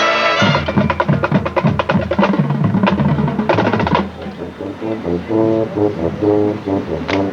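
Marching band playing: a held brass chord cuts off just after the start, then the drum line plays a rapid passage of snare and bass drum strokes for about three and a half seconds, followed by a softer passage of short pitched notes.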